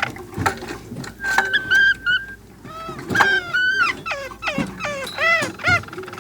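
A dog whining and whimpering: a held whine, then a quick series of short high whines that rise and fall.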